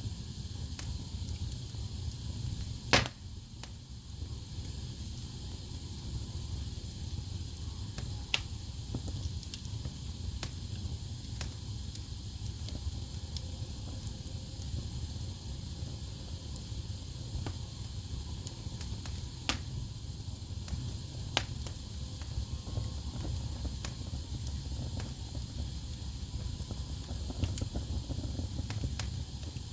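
Wood fire burning in a fireplace: a steady low rumble of flames with a faint hiss, and sharp crackles and pops from the logs every few seconds. The loudest pop comes about three seconds in.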